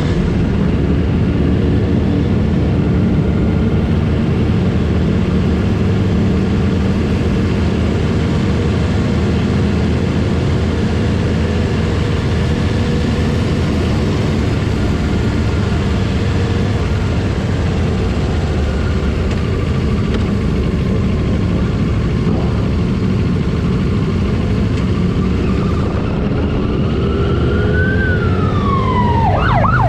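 Motorcycle engines running steadily during a group ride. Near the end a police siren starts, with a wail that rises and falls and then quick yelps.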